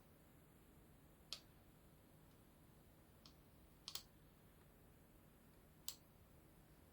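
A few scattered, sharp clicks at a computer while weather maps are being navigated, one of them a quick double click, over a quiet room with a faint low hum.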